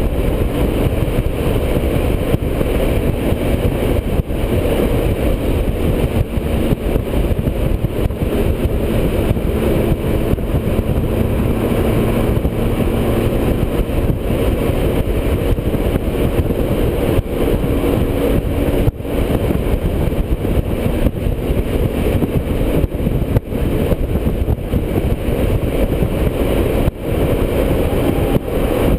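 Motorcycle cruising on the highway: a steady rush of engine, road and wind noise, with a few brief dips in level.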